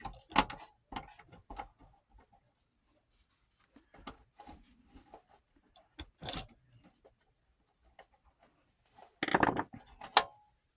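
Scattered clicks, taps and light rattles of a Baia Reviewer 8mm film viewer's casing and parts being handled and opened up by hand, with a denser burst of clattering knocks about nine seconds in.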